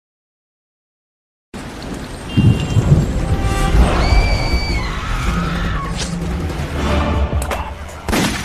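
Dead silence for about a second and a half, then a noisy outdoor field recording starts abruptly: a heavy low rumble and hiss like wind on the microphone, with a few sharp knocks and a brief high steady note about four seconds in.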